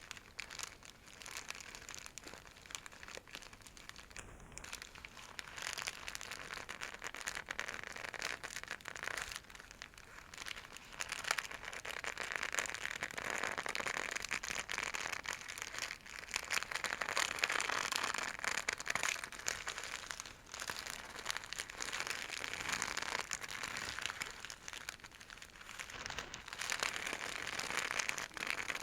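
A scratchy silk bag being scrunched and scratched: a dense crinkling rustle that swells and eases in waves, loudest in the middle stretch and again near the end.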